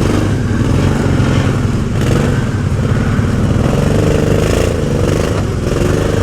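Arctic Cat UTV engine revving under load as it crawls over rocks, its pitch rising and falling with the throttle.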